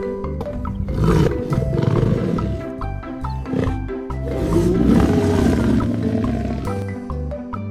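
Lion roaring over background music.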